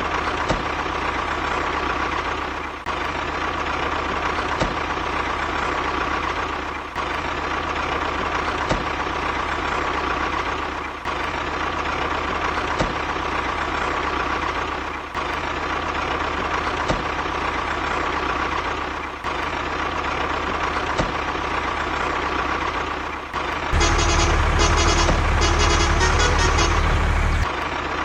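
A steady motor-driven vehicle sound, running on with a short dip about every four seconds. Near the end it turns louder and deeper for about four seconds, with a high beeping over it.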